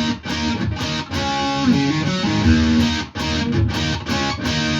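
Electric guitar playing a rock riff: a two-string bar on the D and G strings against a ringing open E, with short stops between the chords and a slide up the neck about two seconds in.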